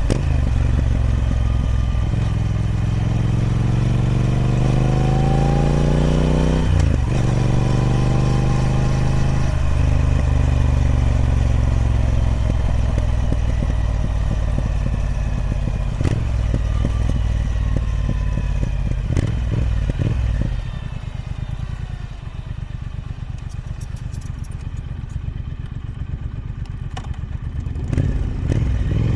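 Triumph Speed Twin 1200's 1200cc parallel-twin engine on its stock exhaust, ridden: it pulls up through the revs, changes gear about seven seconds in and pulls again, then settles and eases off. About two-thirds of the way through it drops to a quieter, low, pulsing run at low revs before the throttle opens again near the end.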